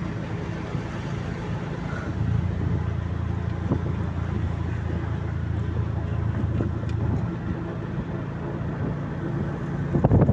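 A motor vehicle's engine running steadily under road noise, its low hum shifting about seven seconds in. Gusts of wind on the microphone come in near the end.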